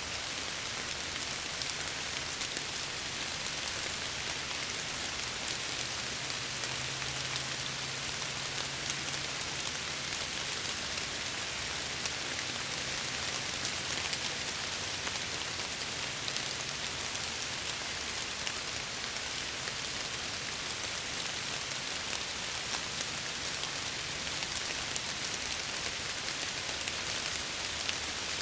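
Steady, heavy rain against window glass: a dense, even hiss flecked with many small drop ticks.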